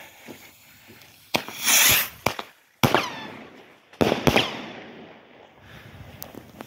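Small beam rockets being fired: a loud whooshing hiss about a second and a half in, then several sharp bangs near three and four seconds in, each trailing off with an echo and some crackle.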